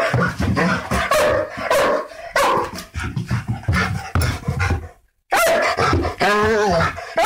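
Dogs barking repeatedly in quick runs. The sound cuts out briefly about five seconds in, then the barking resumes with pitch bending up and down.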